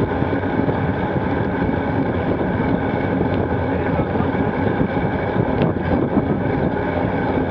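Steady wind rush and riding noise from a gravel bike in motion, picked up by a front-mounted action camera's microphone.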